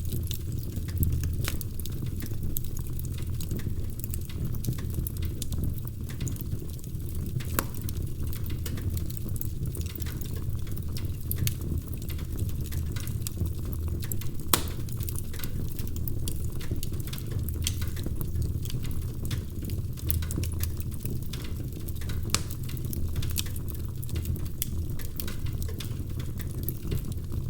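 Wood fire crackling in a fireplace: irregular sharp snaps and pops over a steady low rumble, with a louder pop about halfway through.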